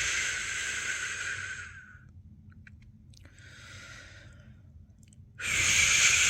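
A person shushing a newborn to sleep with a long 'shh', which trails off about two seconds in. After a pause with a short, faint shush, a loud 'shh' starts again abruptly near the end.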